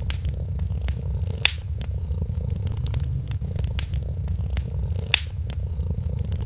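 A cat purring steadily in a low, fast rumble, over a wood fire crackling with scattered sharp clicks. Two louder pops from the fire come about a second and a half in and again about five seconds in.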